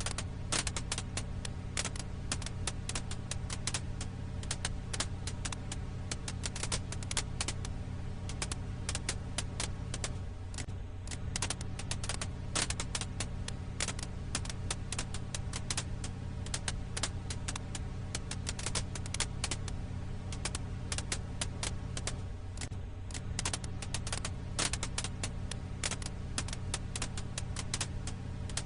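Firewood crackling in a campfire: dense, irregular sharp snaps and pops over a steady low hum.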